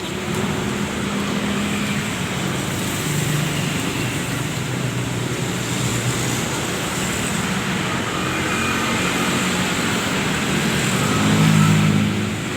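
Road traffic running by, with a vehicle engine growing louder and passing about eleven seconds in.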